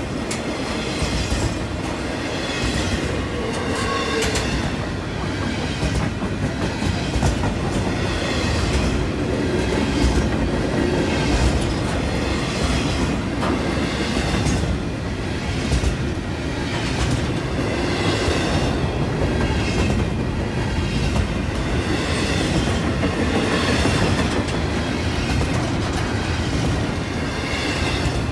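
Double-stack container freight train rolling past. Its steel wheels rumble steadily, with a clickety-clack every second and a half to two seconds as wheel sets cross the rail joints.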